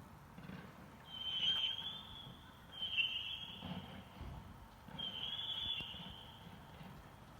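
Three high, steady whistles, each lasting about a second, heard about a second, three seconds and five seconds in: whistling fireworks going off in the distance.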